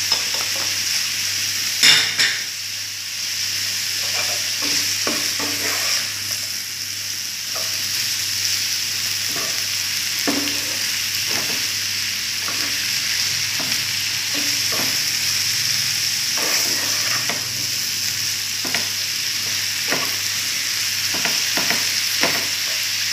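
Cut cabbage sizzling as it stir-fries in a nonstick frying pan, with a plastic spatula scraping and tapping against the pan as it is stirred. There is a louder clack about two seconds in.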